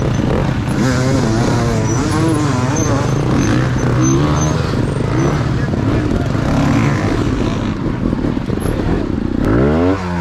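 Dirt bike engines running with throttle blips that waver up and down. Near the end one engine revs sharply up and then drops back.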